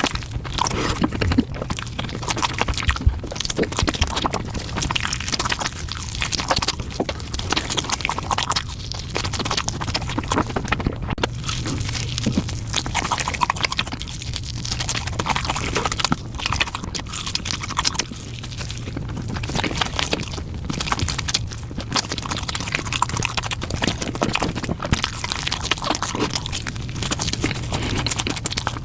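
Close-miked eating: chewing and biting into a spicy chicken leg, an unbroken run of irregular crackling clicks and crunches over a steady low hum.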